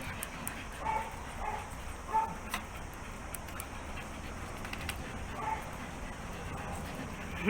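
Dogs barking: several short barks and yips, spaced about a second or more apart.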